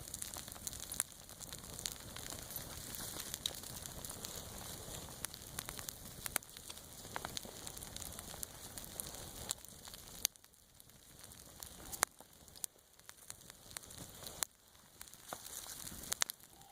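Wood campfire crackling with sharp, irregular pops over a steady hiss of freezing rain; the hiss drops suddenly quieter about ten seconds in.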